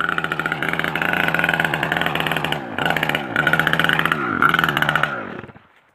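Motorbike engine running under throttle, the revs dropping briefly and climbing again three times, then fading out near the end.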